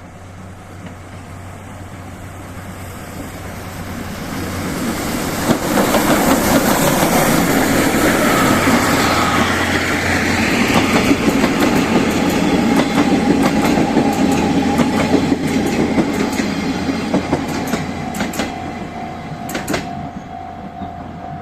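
Steam-locomotive-hauled passenger train passing close by. It grows louder over the first few seconds, runs loud for about ten seconds, then fades, with wheels clicking over rail joints near the end.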